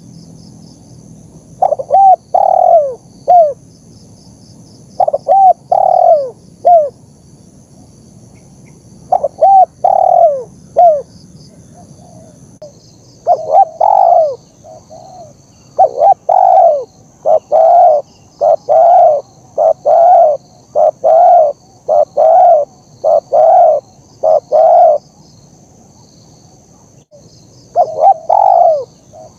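Spotted dove (tekukur) cooing in short groups of two or three notes, then a long run of quick coos from about 14 to 25 seconds in. Faint high-pitched chirping continues underneath.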